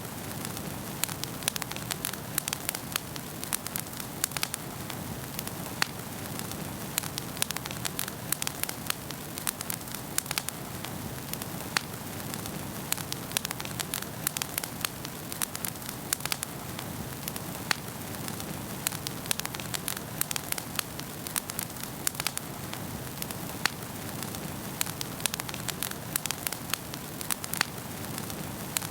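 Wood fire burning in a fireplace, crackling and popping: many irregular sharp cracks a second over a steady low noise of the flames.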